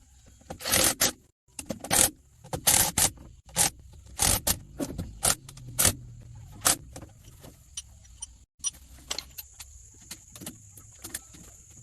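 Irregular clinks, knocks and scrapes of hard objects, likely metal tools or engine parts being handled, busiest in the first half and thinning out later. A faint steady high-pitched whine runs underneath.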